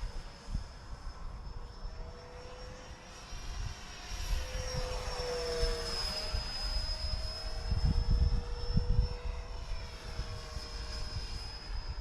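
64 mm electric ducted fan of an RC F-35 jet whining steadily in flight, swelling and dropping slightly in pitch as it passes by around the middle. Low rumbles come in about eight to nine seconds in.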